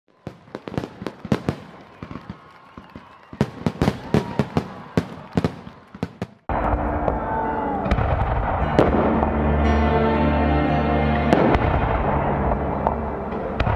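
Fireworks going off in a rapid, irregular string of sharp bangs and pops. About six and a half seconds in, music starts abruptly, and a few bangs still sound over it.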